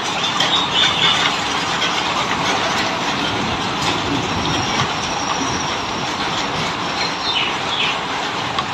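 Steady heavy rain falling. A few short bulbul chirps cut through, about a second in and again near the end.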